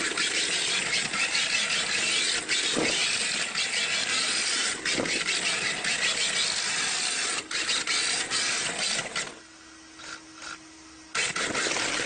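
RC drift car running, its hard tyres hissing and scraping as they slide across the surface, with scattered clicks. About nine seconds in the noise drops away for nearly two seconds, leaving only a faint steady hum, then resumes.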